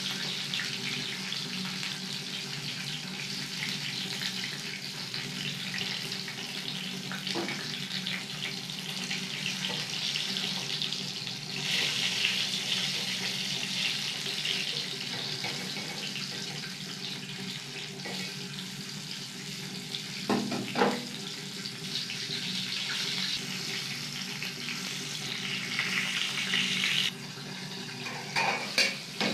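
Whole green capsicums sizzling steadily in hot oil in a steel wok, with a few knocks of a slotted metal spoon against the pan. Near the end the sizzle drops suddenly as a metal lid is set on the pan, with a short clatter.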